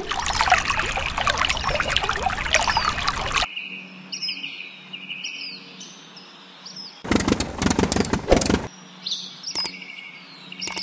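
Small birds chirping in short repeated calls. Two loud stretches of harsh, crackling noise cover them, one lasting about three and a half seconds at the start and another about a second and a half long around seven seconds in.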